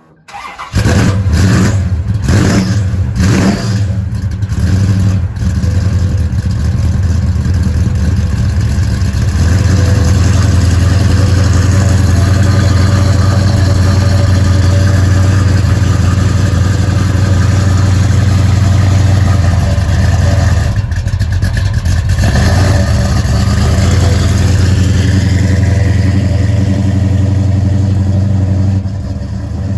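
1968 Dodge Coronet R/T's 513 cubic-inch big-block V8 starting from cold. It fires about half a second in and is revved several times over the first few seconds, then settles into a steady, loud, deep-rumbling idle. The idle drops off slightly near the end.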